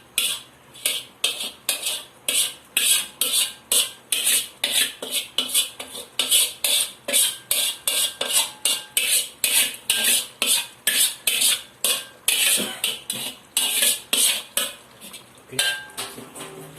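A spoon scraping and knocking against a cooking pot in quick, even strokes, about three a second, as pre-fried chicken is stirred into the curry gravy; the strokes stop briefly near the end, then one more comes.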